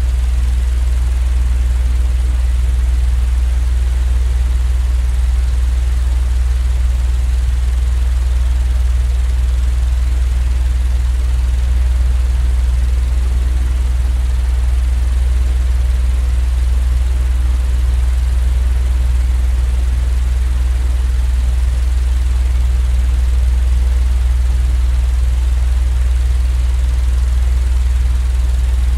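Steady, unchanging deep rumble with a soft hiss above it: a continuous white-noise sleep track.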